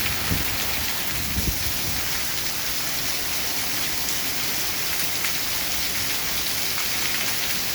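Heavy downpour: a steady, dense hiss of torrential rain pouring down and striking the ground and surfaces.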